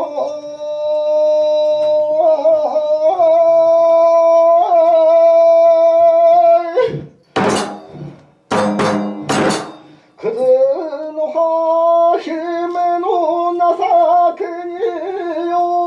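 Kagura music: a long-held, ornamented melodic line with many overtones, in two long phrases, broken about seven to nine seconds in by a few sharp percussion strikes.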